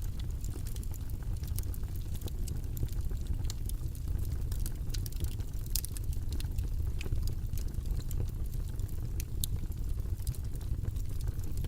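A steady low rumbling white-noise track, with light, irregular clicks and ticks scattered over it throughout.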